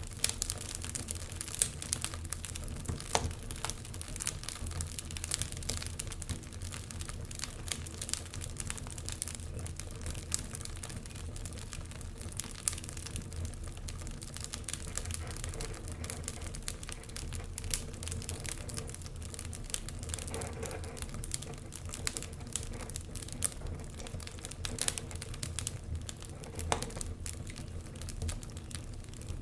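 Wood fire crackling steadily: many irregular sharp pops and snaps over a low, even rumble of flame.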